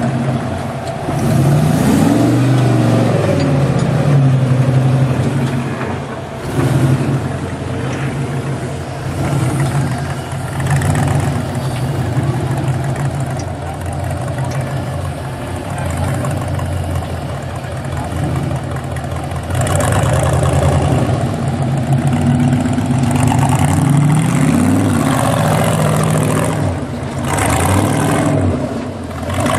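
Off-road 4x4's engine working under load on a rock-crawling climb. It runs steadily and revs up and back down a couple of times, near the start and again near the end.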